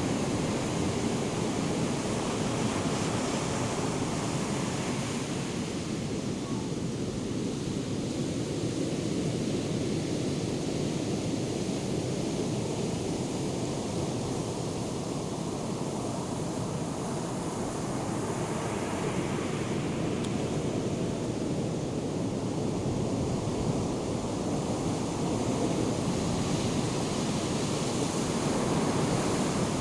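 Ocean surf from a hurricane swell breaking and washing ashore in a continuous rush, swelling louder a few times as waves break.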